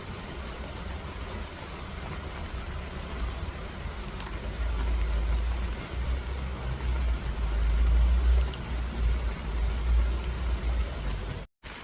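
Steady rain falling, with a deep low rumble that swells from about halfway in and stays uneven, then a brief dropout in the audio near the end.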